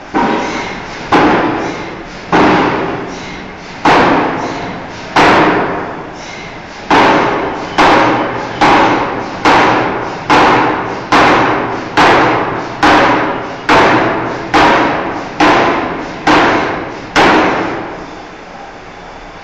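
Forging hammer striking a steel bar in a series of heavy blows, each ringing briefly as it fades. The first few come slowly, then they fall into an even rhythm of a little more than one blow a second. A steady machine hum runs underneath.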